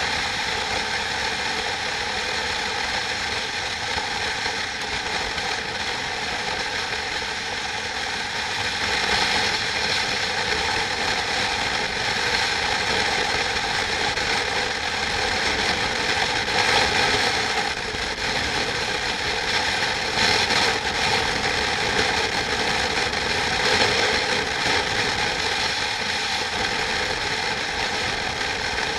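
Steady, continuous machine noise with a rattling texture, made up of many steady tones at once and swelling slightly at times.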